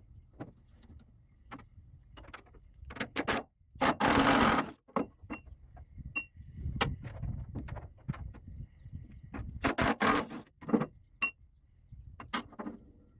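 Hand tools clinking and knocking against metal parts in scattered, irregular strokes. About four seconds in there is a loud burst of noise lasting nearly a second, and a cluster of loud knocks comes near ten seconds.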